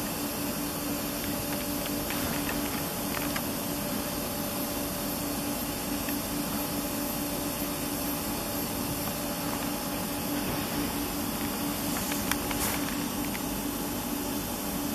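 A standing double-deck electric passenger train gives off a steady hiss with a low hum, as its ventilation and air equipment run while it waits at the platform. A couple of faint clicks come near the end.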